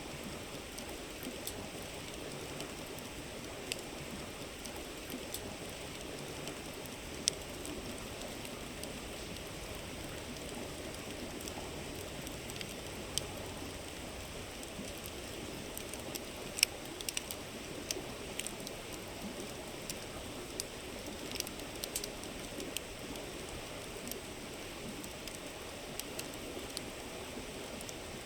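Wood campfire crackling, with scattered sharp pops and snaps, over the steady rush of a flowing river. The two loudest pops come about 7 seconds in and about 17 seconds in.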